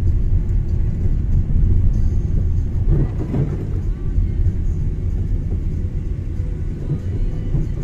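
Car driving on a snowy road: steady low rumble of engine and tyre noise.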